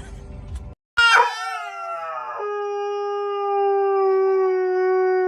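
A goldendoodle howling: one long howl that falls in pitch about a second in, then holds a single steady note.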